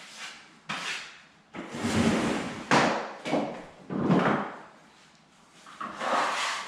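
Trowel scraping across a wood floor in repeated swipes, spreading Woodwise latex wood filler for a full trowel fill. There are about six strokes with short pauses between them, the longest around two seconds in.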